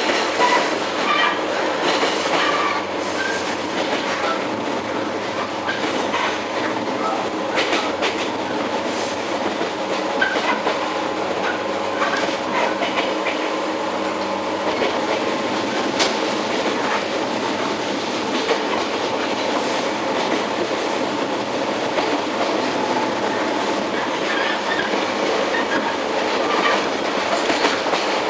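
Running noise inside a JR 115-series electric multiple unit's motor car (MoHa 114): a steady hum and whine from the traction motors and gears over a dense rumble of wheels on rail. Sharp clacks from the wheels come now and then.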